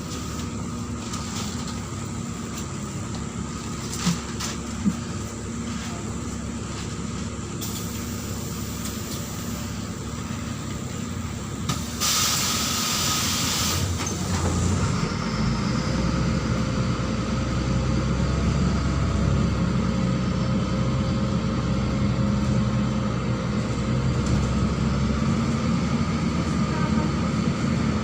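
Neman city bus engine idling, with two clicks about four seconds in, then a loud hiss of compressed air about twelve seconds in. After that the engine runs louder as the bus pulls away.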